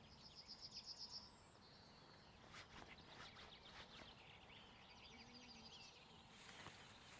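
Faint high-pitched bird calls: a rapid trill of about a second near the start, scattered chirps in the middle, and another trill around four to five seconds in.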